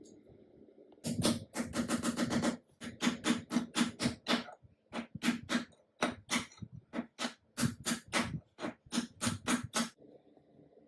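Restored antique sewing machine running in several short runs, its needle strokes ticking about five times a second over a steady low hum, with brief pauses between runs.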